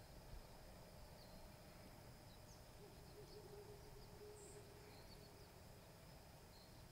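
Near silence: faint woodland ambience with a few faint, short high chirps of distant birds.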